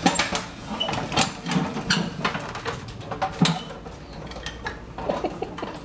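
A child's ride-on toy tractor being ridden, its plastic parts and wheels giving irregular clicks and clatters with a few sharper knocks.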